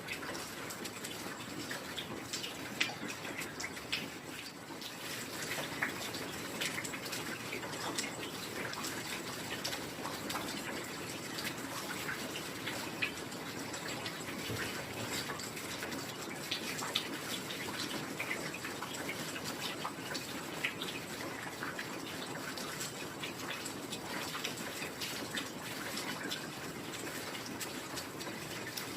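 Heavy rain falling steadily: a dense, even hiss of rainfall thick with separate drop splashes, with a few louder drips standing out now and then.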